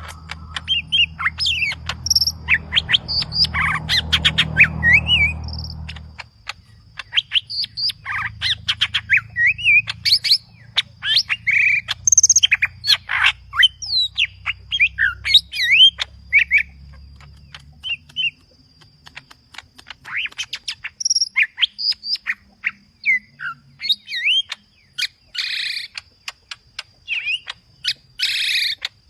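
A cucak ijo (green leafbird) sings a fast, unbroken, varied song of whistled glides, chirps and harsh squawky notes, with mimicked phrases worked in. A low hum sits under it for the first few seconds and then fades.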